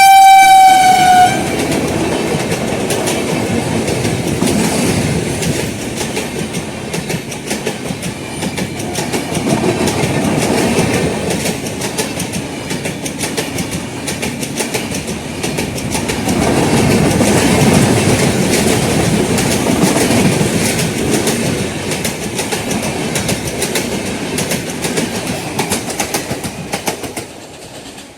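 An Indian Railways passenger train passing: its horn holds one long steady note that cuts off about a second in, then the coaches rumble and clatter over the rail joints for the rest of the time, dropping away sharply near the end.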